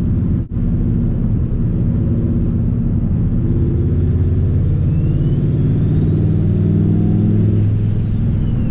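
Turbocharged 8.3-litre V10 of a Dodge Ram SRT-10 pulling hard under acceleration, with a high turbo whine that rises in pitch for several seconds and then falls away near the end as the throttle eases. The sound briefly cuts out about half a second in.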